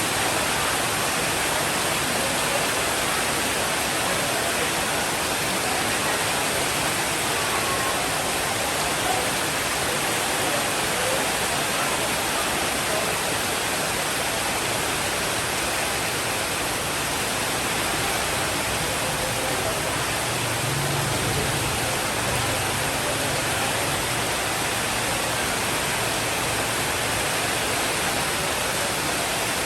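Steady rainfall, an even hiss with no gaps. A faint low rumble comes up about two-thirds of the way through.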